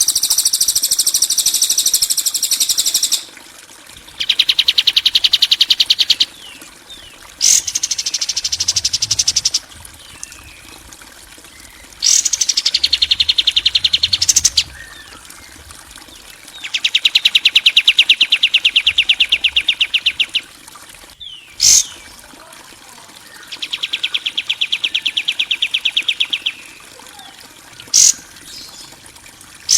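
Harsh bird calls of the kind used as songbird training recordings: a series of fast rattling trills, each two to four seconds long, a few of them dipping and rising in pitch, with short sharp chirps in between.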